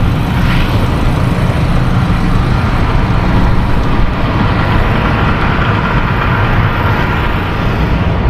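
Steady motor-vehicle noise: a low engine drone with road noise, unchanging throughout.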